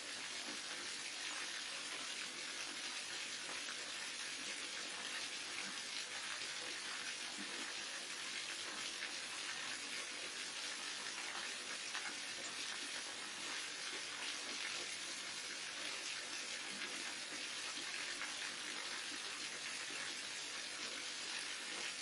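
Waterfall: water falling in a steady, even rush that never changes.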